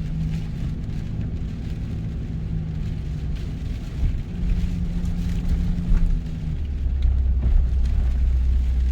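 Car interior while driving: a steady engine hum and road noise heard from inside the cabin. The engine note shifts about four seconds in, and a deeper rumble takes over from about seven seconds.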